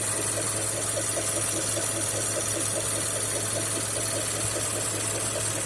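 Mazda CX-5's 2.5-litre Skyactiv-G (PY) petrol engine idling hot, with a fast, even ticking knock over its steady hum. Some take the knock for the intake manifold's swirl flaps rattling.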